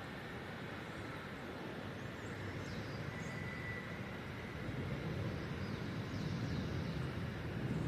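Heavy rain falling, a steady rushing noise that grows louder and deeper about five seconds in.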